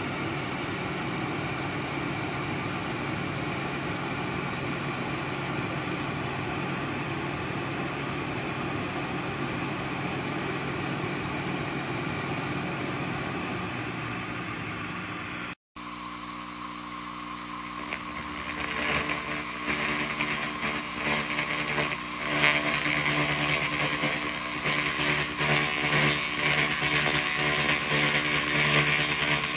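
A steady machine hum runs for about half the time, then cuts out for a split second. After the break comes the crackling hiss of a 2000 W SFX laser rust remover working on metal, over a steady hum.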